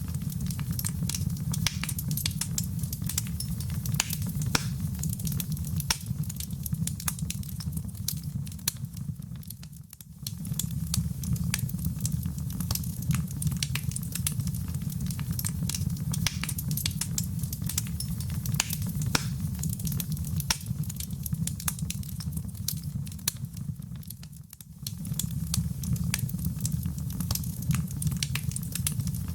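Wood fire in a fireplace crackling, dense small pops and snaps over a steady low rumble of the flames. The sound dips and swells back twice, about ten seconds in and again about five seconds from the end.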